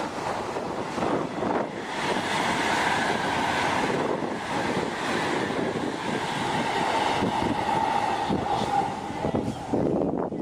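High-speed train running at speed: a steady rushing noise with a faint, held whine underneath.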